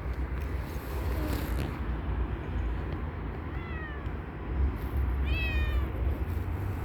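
A cat meowing twice: two short calls that fall in pitch, the second louder, over a steady low rumble.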